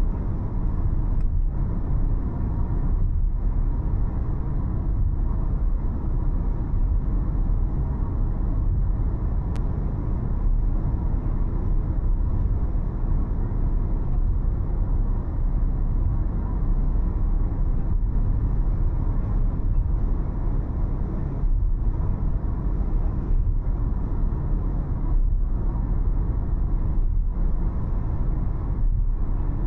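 Car driving along a road: a steady, low rumble of engine and tyre noise.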